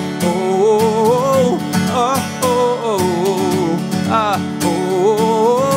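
Live acoustic song: acoustic guitar strumming under a wavering, wordless melody line that bends up and down.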